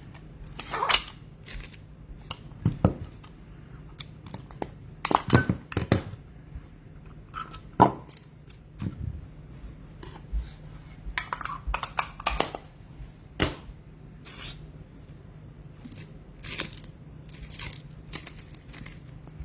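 Trading card packs and cards being handled by hand: irregular crinkles, taps and clicks of wrappers and cards, over a faint steady low hum.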